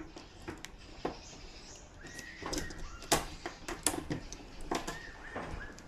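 Scattered light clicks and taps of parts being handled, with a chicken calling twice, about two seconds in and again near the end.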